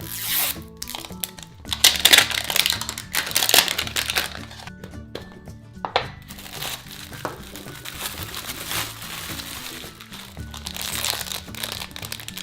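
Plastic wrapping of an L.O.L. Surprise toy crinkling in bursts as it is unwrapped by hand, over background music.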